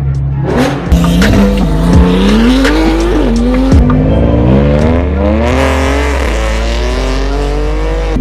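Straight-piped BMW M4 F82's twin-turbo inline-six accelerating hard, its pitch climbing through the gears and falling sharply at each upshift, with a long steady climb in the second half. Music with a steady bass plays underneath.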